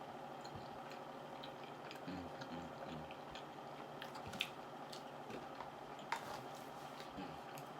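A person chewing a mouthful of chicken Alfredo pasta, faint soft wet mouth sounds with a few sharp clicks, over a steady faint background hum.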